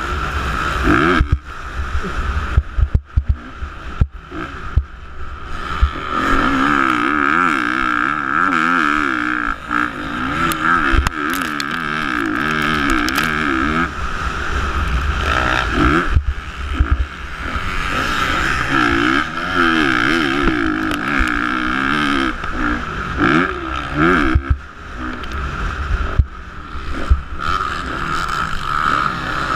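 Motocross bike engines revving up and down repeatedly as the bikes accelerate and shift through the race, with heavy rumble and occasional knocks.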